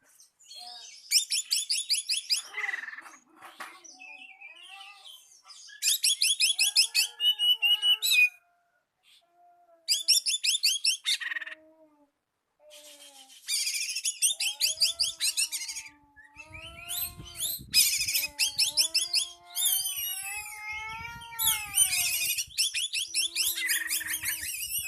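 Oriental magpie-robin singing an agitated territorial song, the kind used as a lure to provoke a rival. Bursts of fast, rattling high trills alternate with lower, sliding whistled notes, broken by brief pauses. The song grows denser and more continuous in the second half.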